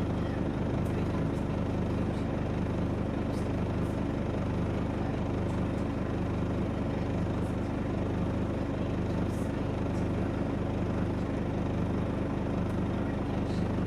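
Scania OmniDekka double-decker bus engine running steadily with an even low hum, with a few faint light ticks over it.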